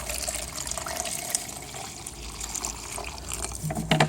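Flush water being poured from a catch basin back into a quart measuring container, a steady trickling pour, with a light knock of the container near the end.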